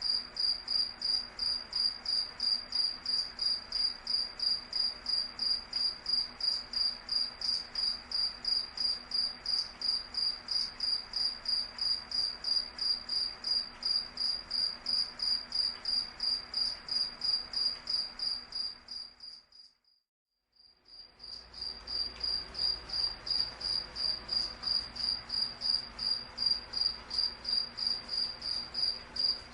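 A cricket chirping, one high-pitched tone pulsing evenly about three times a second. About two-thirds of the way through it fades out to silence for a second or so, then fades back in.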